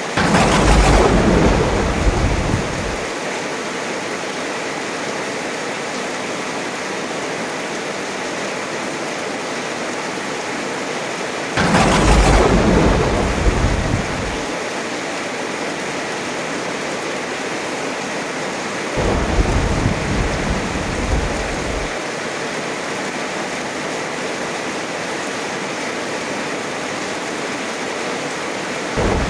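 Steady heavy rain with thunder: three peals, about the start, about twelve seconds in and about nineteen seconds in, each lasting two to three seconds, the first two opening with a sharp crack that falls into a low rumble, and another peal beginning at the very end.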